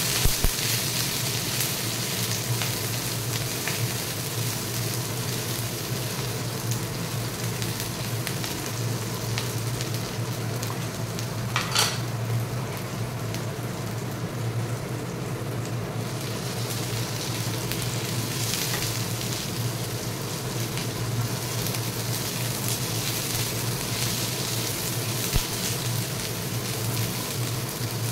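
Chopped garlic, ginger and green chillies sizzling in hot oil in a wok, stirred now and then with a spatula, with small crackles throughout and a steady low hum underneath.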